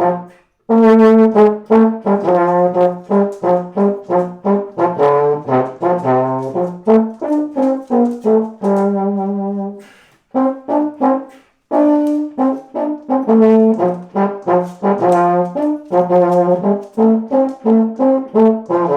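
Freshly repaired baritone horn being play-tested: a run of separate tongued notes and short phrases with a few brief pauses, sounding freely, as a baritone that now plays well.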